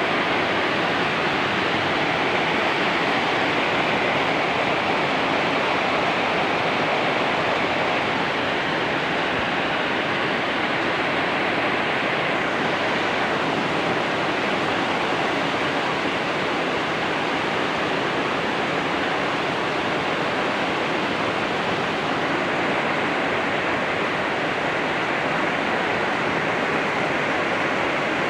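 Heavy tropical rain pouring down in a steady, unbroken downpour.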